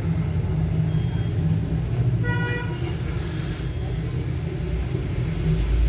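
Steady street-traffic rumble with one short vehicle horn toot about two and a half seconds in.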